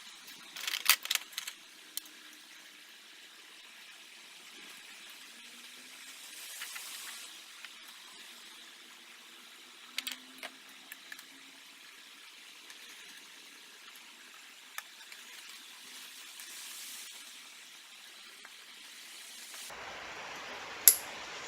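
A few sharp clicks and light clatter over a steady hiss, with two short swells of hiss in between.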